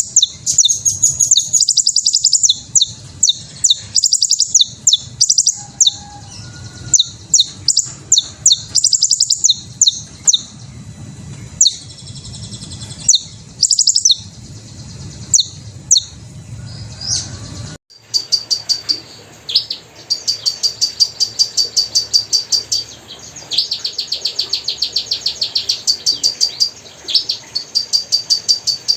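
Hummingbirds giving rapid, high-pitched squeaky chirps and twitters. About 18 seconds in the sound changes abruptly to a fast, even run of repeated chips.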